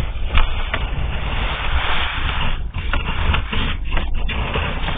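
Sewer inspection camera on its push rod being pulled back through concrete sewer pipe: a steady scraping rumble with a few sharp knocks.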